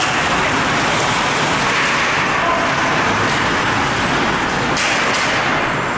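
Steady, loud din of an ice hockey game in a rink, with a few sharp clicks.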